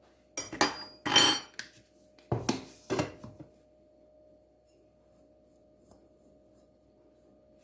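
Kitchen utensils and bowls clinking and clattering in two short bursts, one about half a second in and another about two and a half seconds in, with a brief ring after the first.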